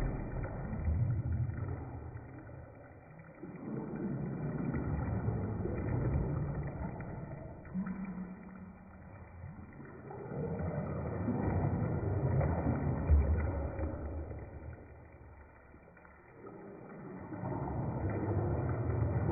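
Bathwater sloshing in a bathtub as waves are made, swelling and fading in slow surges about every six seconds, muffled.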